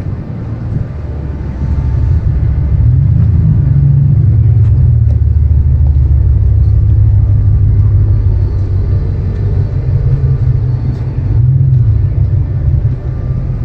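Loud, deep rumble of a car engine, swelling about three seconds in and again near the end.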